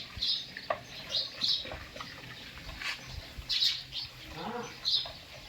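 Birds chirping: short high chirps at irregular intervals, over a faint low hum.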